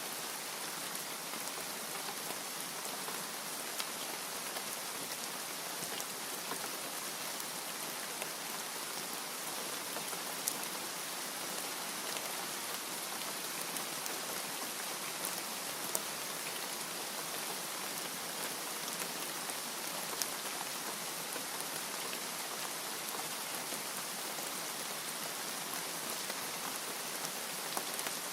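Steady rain falling, an even hiss with occasional sharp drips standing out every few seconds.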